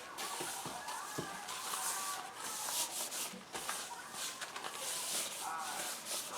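Hand rubbing over a bare cast iron pan, irregular wiping strokes, as a coat of oil is worked into the freshly sanded metal before its first seasoning.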